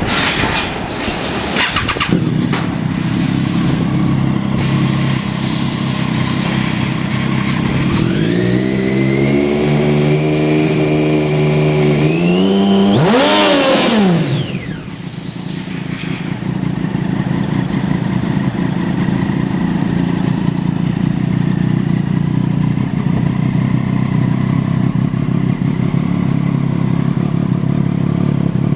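2008 Triumph 675's inline three-cylinder engine catching and idling. About eight seconds in it is raised to a held higher speed, then blipped sharply up and let fall back, and it settles to a steady idle.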